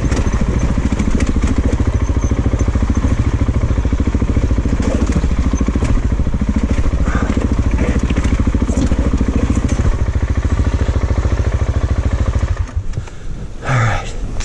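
Single-cylinder 690 cc dual-sport motorcycle engine running with an even, rapid firing pulse. About a second and a half before the end its sound drops away sharply, and a brief short pitched sound follows.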